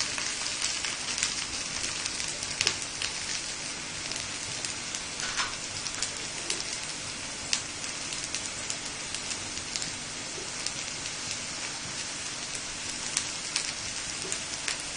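Food sizzling in hot pans: a steady frying hiss with scattered crackling pops.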